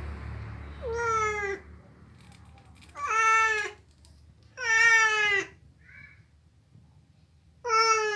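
A domestic cat meowing four times, each meow under a second long with a couple of seconds between them: a cat asking to be let in through a closed door.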